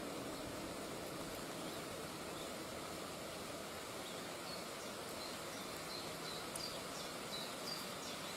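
Steady outdoor background noise with short, high bird chirps repeating now and then, more often in the second half.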